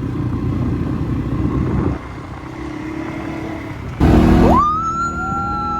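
Off-road vehicle engine running with a rough low rumble. About four seconds in there is a loud burst, followed by a high tone that rises quickly and then holds steady, with a second, lower held tone joining it.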